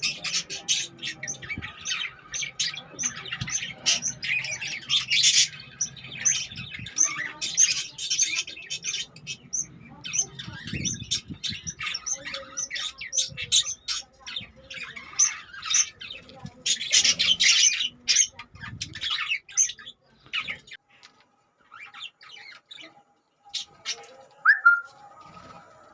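Budgerigars chirping and squawking in rapid, busy chatter that thins out to scattered calls after about twenty seconds.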